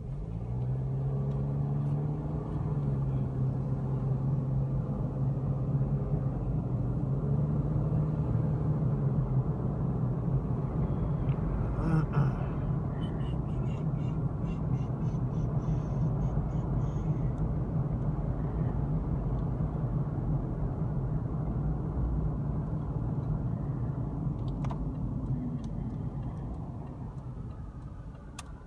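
Vehicle engine and road rumble heard from inside the cab while driving: the engine picks up speed over the first couple of seconds, then runs steadily at cruising speed, easing off near the end.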